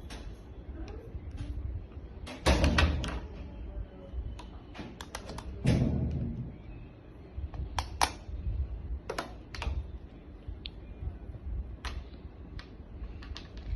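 Irregular plastic clicks and knocks from a LeapFrog toy coffee machine and its pieces being handled, with a quick clatter of several clicks about two and a half seconds in and scattered single knocks after.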